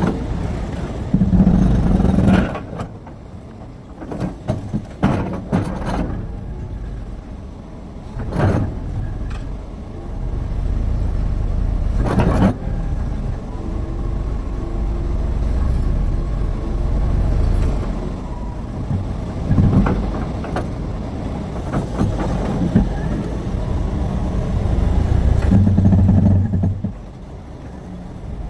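Terex RH30F hydraulic excavator's engine working under load, its level swelling and easing as it digs and swings. Sharp knocks come several times, in the first half especially, typical of stones striking steel as they are loaded.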